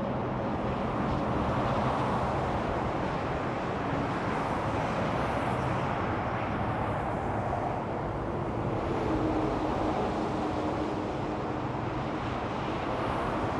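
Steady interstate traffic noise: a continuous wash of tyre noise from passing cars and trucks, with a low engine hum underneath.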